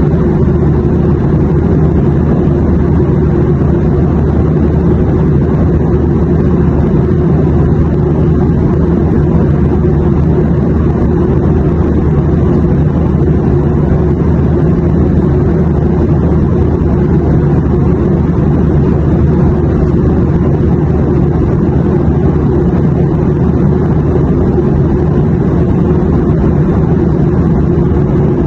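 Airplane cabin noise in flight: a steady, even low rumble that does not change.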